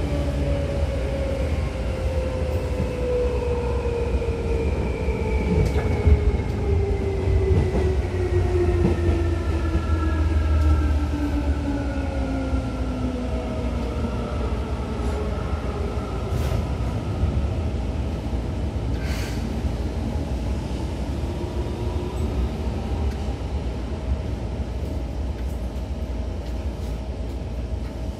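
Seibu 2000 series electric train running, with a steady low rumble. Its motor and gear whine slides down in pitch over the first half as the train slows, then fades, leaving the rumble and a few clicks from the wheels on the track.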